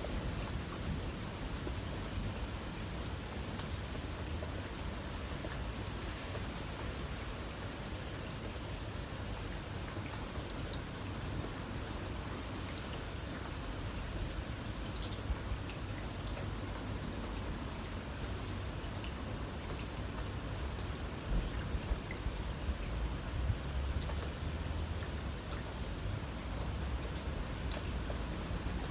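Insects trilling in a steady high-pitched chorus, pulsing after a few seconds and growing louder in the second half, over the soft hiss of light rain and a low rumble.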